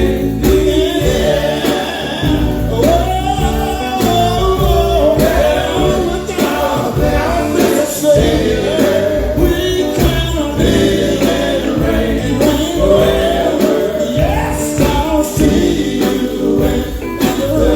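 Male gospel quartet singing in harmony over instrumental backing with bass and drums.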